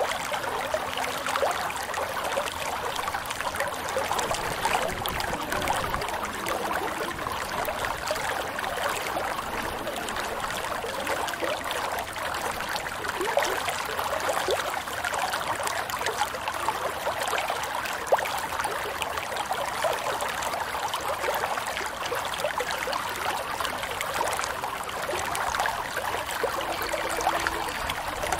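Running water in a small stream, a steady trickling flow.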